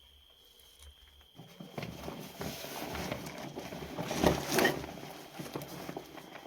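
Rapid rustling and crunching made of many small clicks, building up about a second and a half in, loudest near two-thirds of the way through, then fading away.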